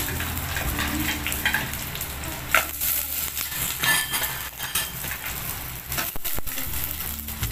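Whole crabs sizzling as they fry in coconut oil in a stainless steel pot, being stirred, with a couple of sharp knocks against the pot.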